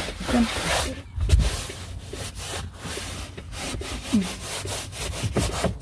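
A damp rag wiped hard back and forth over a truck cab floor, a steady run of rubbing strokes, with a low bump about a second in.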